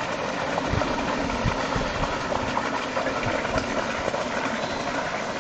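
Steady outdoor background noise, a continuous rumbling hiss with a few short low thumps scattered through it.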